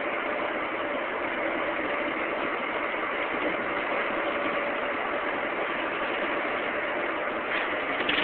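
Denver International Airport underground people-mover train running through its tunnel, heard inside the car: a steady rumbling noise with a faint hum.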